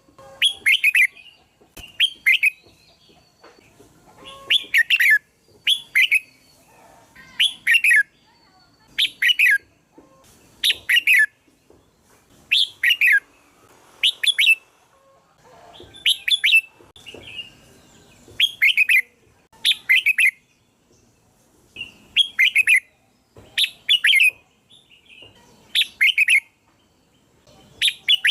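Red-whiskered bulbul singing: short, loud, chirpy phrases repeated about every one and a half to two seconds, each made of quick notes that sweep down in pitch.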